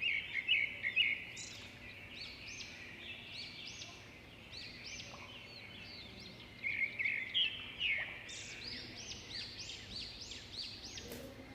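Budgies chirping: a busy run of quick, high, repeated chirps, loudest near the start and again about seven seconds in.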